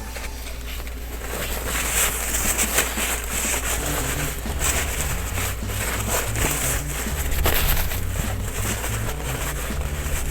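A cloth towel rubbing a small toy dry: an irregular scrubbing and wiping with a few light knocks of the toy being handled.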